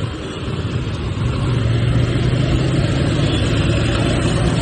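TVS Apache motorcycle's single-cylinder engine running under throttle while riding, getting louder over the first second or so as it accelerates and then holding steady.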